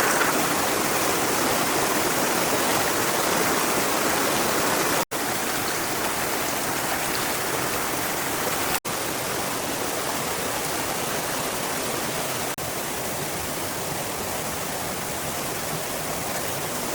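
Steady rush of water, an even hiss with no rhythm or pitch, cutting out for an instant twice.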